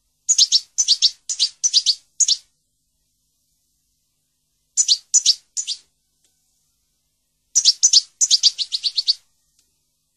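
A bird chirping: three runs of quick, high chirps, one near the start, a short one in the middle and the longest near the end, with complete silence between them.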